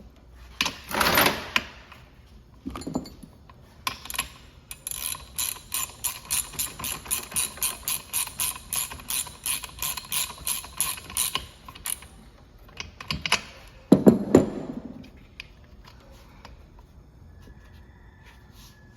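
A ratchet wrench clicking in an even run of about three clicks a second for some seven seconds, with louder scraping knocks of tools or parts before and after.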